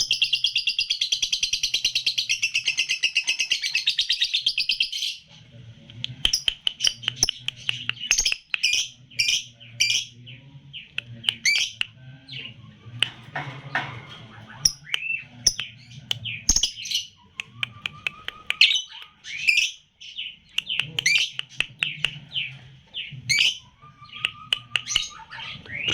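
Young lutino lovebird singing: a fast, continuous trill for about the first five seconds, then a string of sharp chirps and twitters with only short gaps between them. A faint low hum runs underneath.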